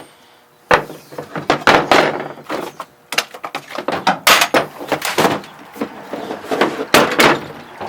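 A rapid, irregular series of knocks, thunks and clatters from hard objects being handled and set down, louder and denser in the middle and ending near the end.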